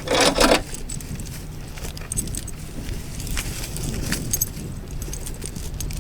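Steel tow chain clinking and rattling as it is unhooked from a log, with a loud scraping burst at the start and light metallic jingles a couple of times after.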